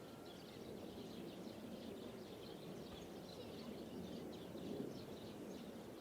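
Small birds chirping in quick, repeated short calls over a faint, steady low background rumble.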